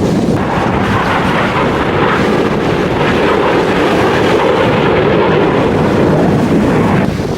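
Jet aircraft engine noise: a loud, even rush that begins suddenly just after the start and drops away shortly before the end.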